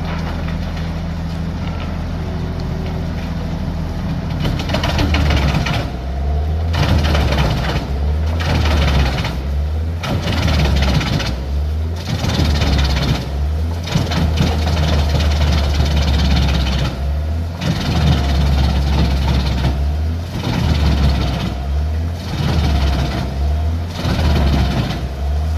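Large wood chipper's engine running steadily, then, from about four seconds in, chipping wood in repeated loud surges with short dips between them.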